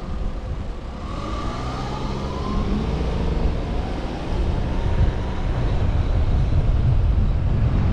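Car driving on the road, its engine rising in pitch as it speeds up in the first few seconds, then a low road and wind rumble growing louder about halfway through.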